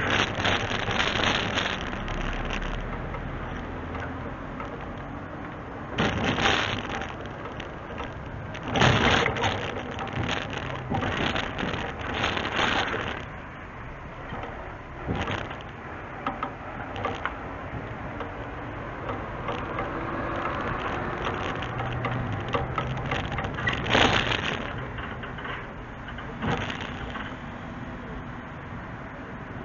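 Heavy truck machinery running steadily, with irregular louder bursts of noise every few seconds.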